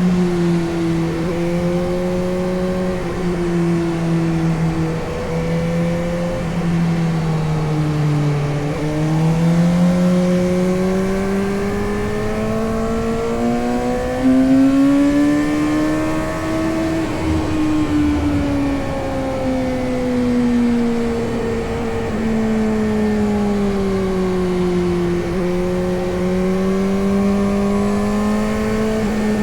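Suzuki GSX-S750 motorcycle's inline-four engine under way, its pitch climbing smoothly for several seconds to a peak just past the middle, then sinking gradually as the throttle is eased, and rising again near the end.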